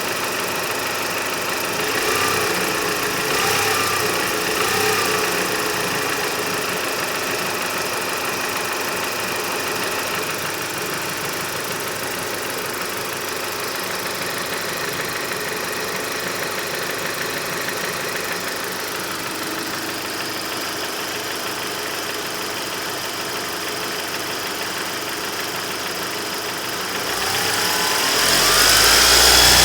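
Mitsubishi 4G63 inline-four engine, its balance shafts removed, running with a knock, mostly at a steady idle. The pitch shifts briefly a few seconds in, and the revs climb near the end.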